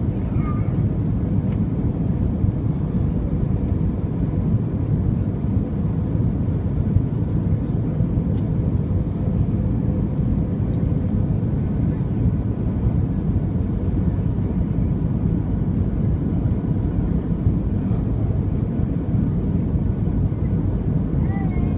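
Steady cabin noise inside an Airbus A320 airliner on approach: a constant deep rumble of the engines and air rushing past the fuselage, with a faint steady tone over it.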